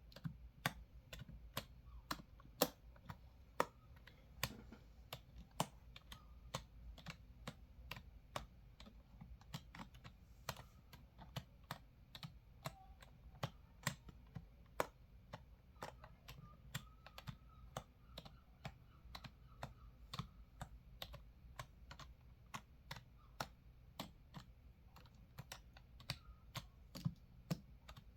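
Typing on a computer keyboard: a continuous run of key clicks at an irregular pace, several a second.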